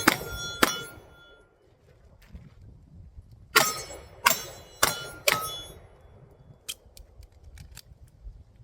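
Pistol shots at steel targets, each with a short metallic ring from the plate as it is hit: two near the start, a pause of about three seconds, then a run of four about half a second apart. A few faint ticks follow near the end.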